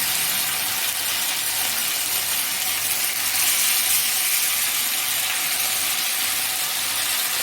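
Marinated chicken pieces frying in hot oil in a pan, a steady, even sizzle.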